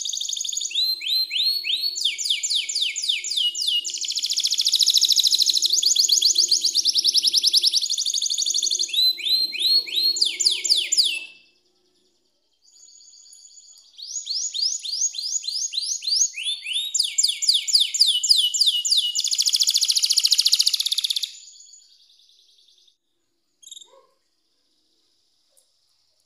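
Domestic canary singing as a lure song, to draw silent canaries into singing: fast rolls of rapidly repeated falling chirps in long phrases. The song breaks off midway, resumes after a short pause, then stops with a couple of brief chirps near the end.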